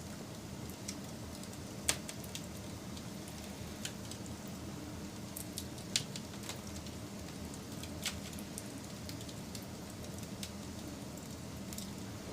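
Wood fire crackling: a steady low rush of burning with scattered sharp pops and snaps, the loudest about 2, 6 and 8 seconds in.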